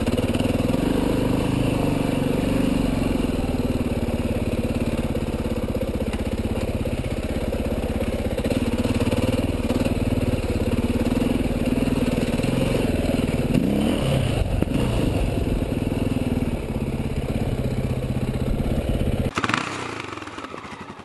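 Enduro motorcycle engine running as the bike rides over a rocky trail, with the revs rising briefly around the middle. The engine sound cuts off about nineteen seconds in and fades out.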